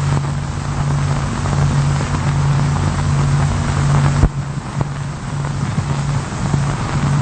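A steady low mechanical drone over constant hiss, with a single sharp click a little past the middle.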